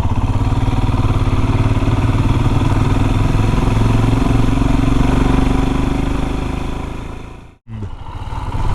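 Royal Enfield Himalayan single-cylinder motorcycle engine running steadily under way, heard from the riding bike. The sound fades and drops out briefly about seven and a half seconds in, then picks up again.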